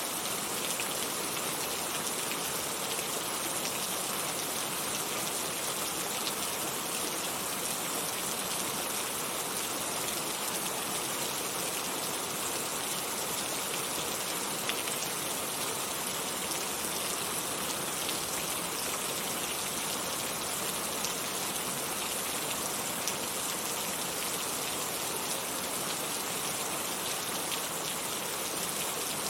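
Heavy rain falling steadily: a dense, even hiss of drops with faint scattered individual drop ticks.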